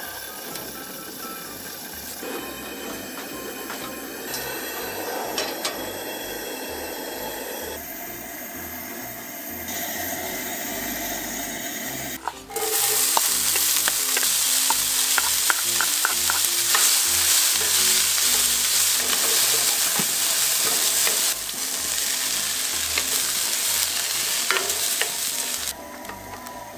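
Chopped onions hitting hot oil in a pan about halfway through and sizzling loudly, while a wooden spatula stirs them with a quick run of clicks against the pan. Before that there is a quieter stretch with background music.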